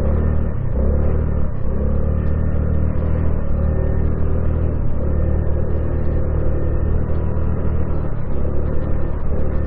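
The 2022 Honda Navi's small single-cylinder engine running under way, dipping briefly a few times in the first couple of seconds, then holding steady.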